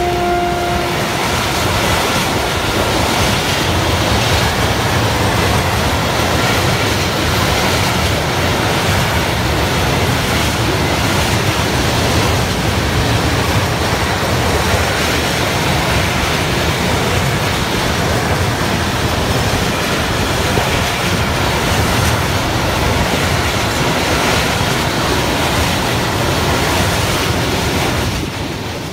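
Freight train passing close, its wagons rolling over the rails in a steady, loud rush of wheel and rail noise. A held locomotive horn note dies away about a second in, and the noise drops off sharply near the end.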